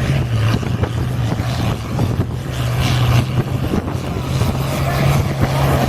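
International Harvester 966 tractor engine running hard at steady high revs under load during a pull.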